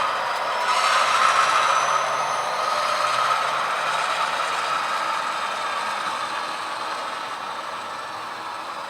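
HO scale model train running on the layout: a steady whirring and rattling of a small motor, gears and wheels on the rails, loudest about a second in and easing off toward the end.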